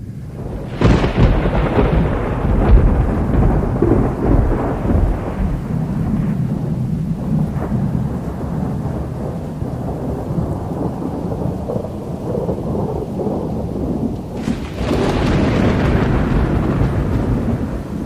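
Thunder during rain: a long low rumble breaks out about a second in and rolls on for many seconds, and a second loud surge comes near the end.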